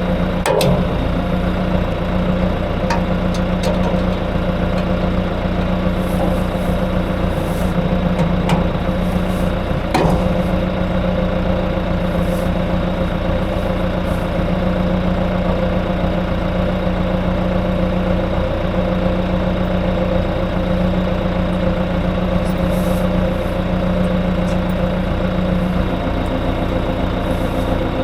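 Tractor engine idling steadily, with a few sharp clicks and knocks over it in the first ten seconds or so.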